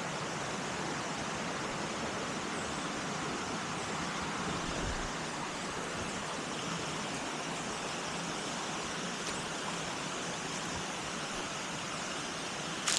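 Steady rushing of a waterfall and stream, with a single sharp click at the very end.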